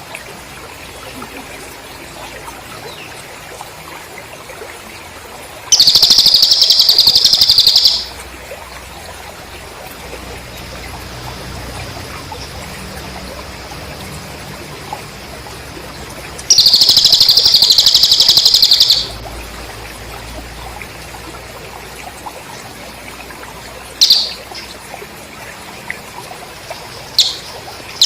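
Cililin bird song with cricket chirping: two loud, rapid, buzzing trills of about two seconds each, a faint steady high trill between them, and a few short sharp chirps near the end.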